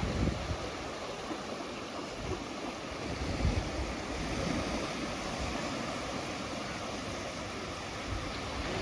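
Ocean surf washing onto a beach in a steady wash, easing a little mid-way and building again near the end, with gusts of wind rumbling on the microphone.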